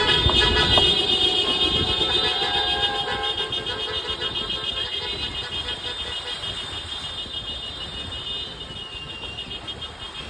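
A vehicle horn held in one long steady blare, slowly fading away.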